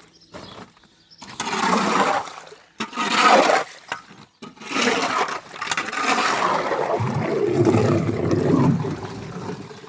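Water gushing and splashing in three surges: two short ones in the first four seconds, then a longer pour of about five seconds.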